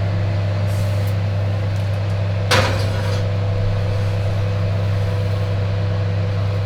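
Steady low hum of a kitchen fan, with a short clatter about two and a half seconds in.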